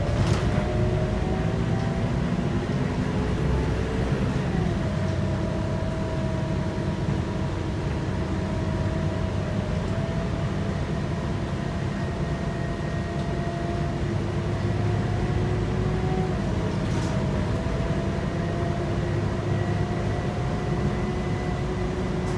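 Scania K230UB city bus heard from inside while accelerating: the Scania five-cylinder diesel and ZF six-speed automatic gearbox run with a rumble and a whine that rises slowly in pitch. The whine drops back at gear changes about four and a half seconds in and again about sixteen seconds in.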